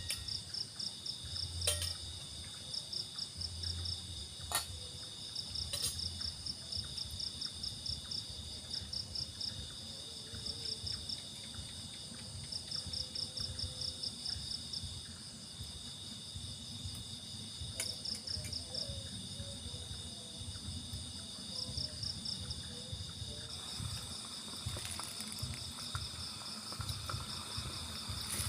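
Forest insects, crickets among them, chirping in a high pulsing trill over a steady high whine, with a few sharp clicks.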